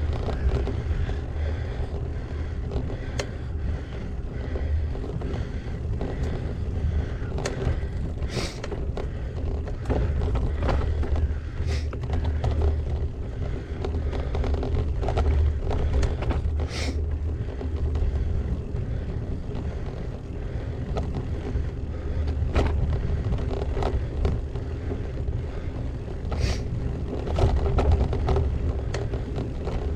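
Gravel bike riding on rough track, heard through an action camera's microphone: a steady low wind rumble and tyre noise, with scattered sharp clicks and knocks as the bike jolts over bumps, the loudest about a third and a half of the way through and near the end.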